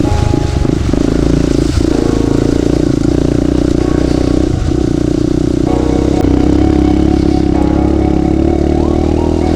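Small single-cylinder off-road motorcycle engine running and revving unevenly, with a few short knocks and scrapes as the bike works over fallen logs on the trail.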